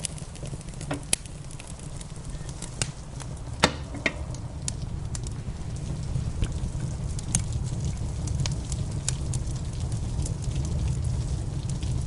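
Wood fire crackling in a fireplace: irregular sharp snaps and pops, one louder pop about three and a half seconds in, over a steady low rumble.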